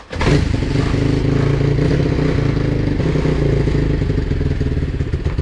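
BSE PH150 pit bike's 150 cc single-cylinder four-stroke engine catching on the kick starter right at the start, then running steadily.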